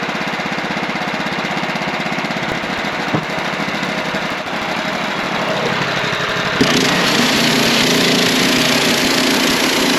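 Wood-Mizer portable band sawmill running, its engine and blade making a steady machine noise while another board is sawn off the log. About two-thirds of the way through, the sound steps up, louder and harsher.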